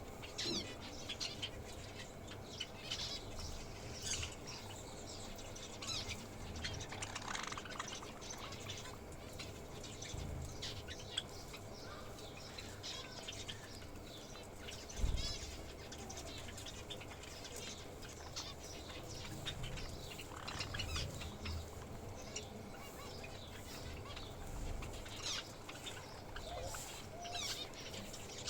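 A group of small pet birds chirping with many short, high notes, with wing flutters and a few low thumps.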